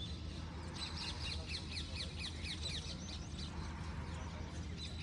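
Small bird chirping: a quick run of short, high, falling chirps, about five a second, starting about a second in and lasting around two seconds, over a steady low hum.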